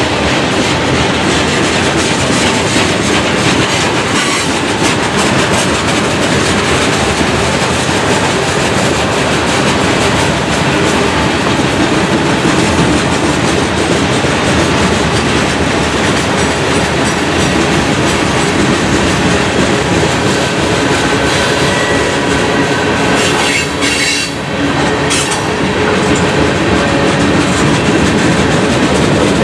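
A freight train's cars rolling past with steady, loud wheel-on-rail noise and clickety-clack over the rail joints. Faint thin wheel squeals come in about two-thirds of the way through.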